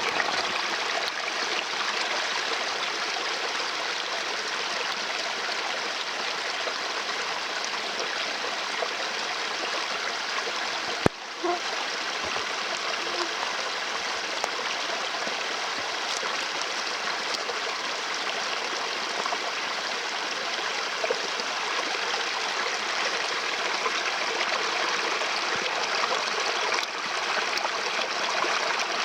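Small stream running steadily, an even babbling and trickling of water, with a single sharp click about eleven seconds in.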